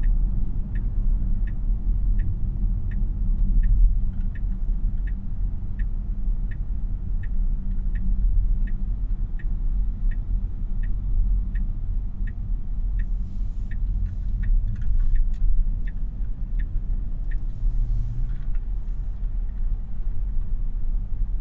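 Inside the cabin of a 2026 Tesla Model Y AWD on the move: a steady low tyre and road rumble, with the turn-signal indicator ticking evenly about one and a half times a second until it stops a few seconds before the end. A few faint clicks come in the later part.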